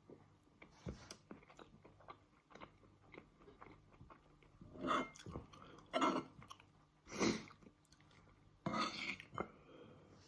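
Close-up chewing of fried tofu and couscous: small wet mouth clicks throughout, with four louder crunchy bursts in the second half.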